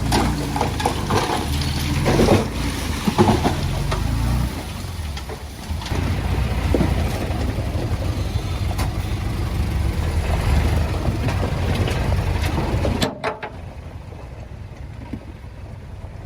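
Diesel engine of heavy earthmoving machinery running steadily, with a few short knocks. The sound drops suddenly to a quieter engine hum about thirteen seconds in.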